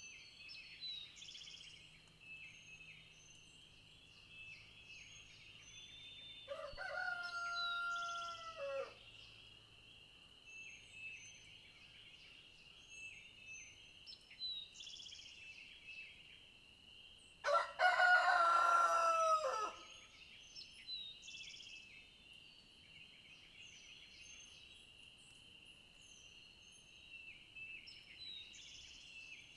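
Rooster crowing twice, each crow about two and a half seconds long, the second louder, over a steady high-pitched chorus and scattered small bird chirps.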